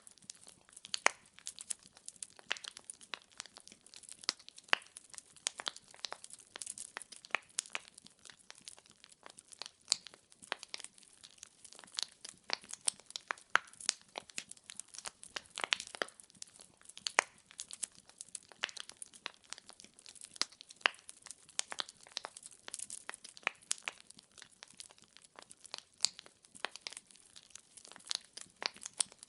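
Wood fire in a fireplace crackling: dense irregular pops and snaps of burning logs over a faint hiss, with a few louder cracks scattered through.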